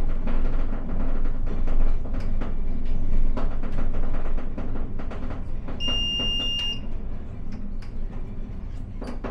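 Aigle–Leysin metre-gauge rack railway train running with a steady low rumble and irregular clicks and knocks. A single high electronic beep, about a second long, sounds a little past the middle.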